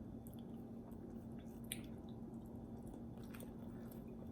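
A person chewing food, with soft wet mouth clicks now and then.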